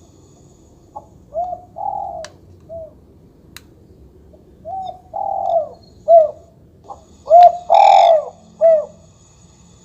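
Recorded dove coos played through a bird-caller speaker: a short phrase of coos, then a longer and louder phrase after a pause.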